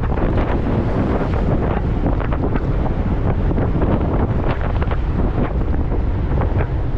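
Wind rushing and buffeting over the microphone of a moving motorcycle in short gusts, with the bike's engine and road noise underneath.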